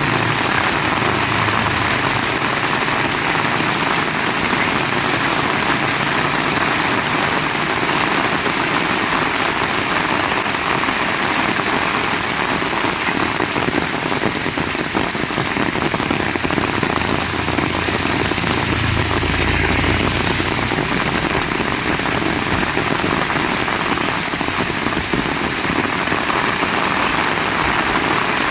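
Heavy rain falling steadily, a dense even hiss of drops. A low rumble swells briefly about two-thirds of the way through.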